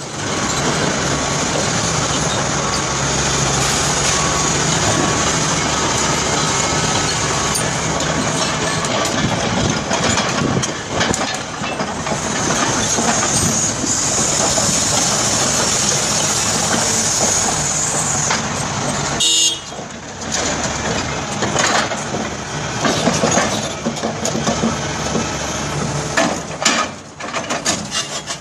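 Heavy diesel mining machinery working: steady, loud engine noise with grinding and scraping throughout. About nineteen seconds in the noise briefly drops and a short high tone sounds.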